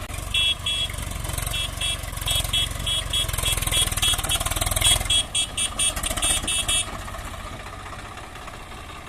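Tractor engine running hard, with a rapid string of short, high-pitched horn toots for about six and a half seconds. The engine drops back to a lower, steadier running near the end.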